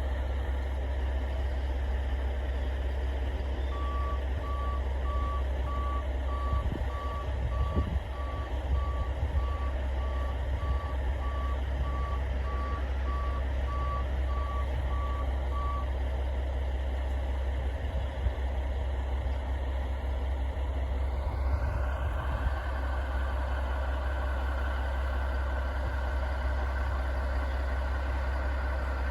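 Maintenance-of-way dump truck with its reverse alarm beeping about once a second for some twelve seconds over a steady low engine rumble. Later a rising whine climbs and then holds at a higher steady pitch.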